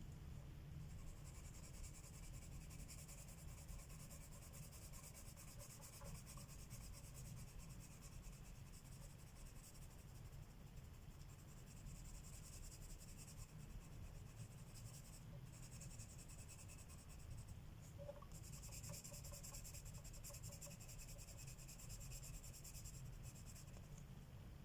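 Colored pencil shading on paper: a faint, fast scratching of back-and-forth strokes, stopping briefly a few times.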